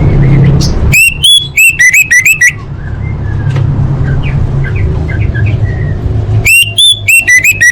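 Orange-headed thrush singing: two fast, loud runs of ringing, looping whistled notes, about a second in and again near the end, with soft chirping notes between the runs.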